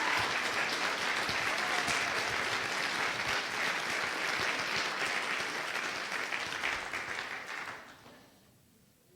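A congregation applauding, the clapping dying away about eight seconds in.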